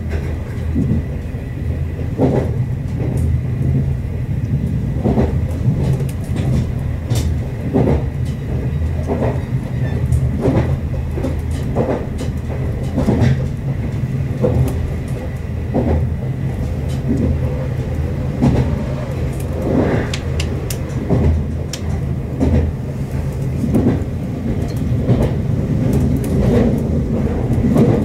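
Running noise heard inside a Meitetsu limited-express electric train travelling at speed: a steady low rumble, with sharp wheel knocks over rail joints every second or so.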